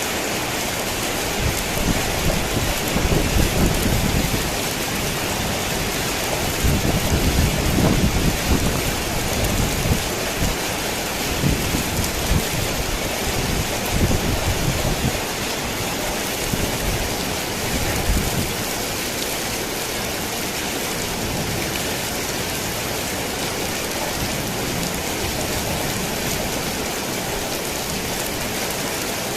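Steady rain drumming on a tin roof, with rolling thunder rumbling in several waves through the first half before it fades, leaving only the rain.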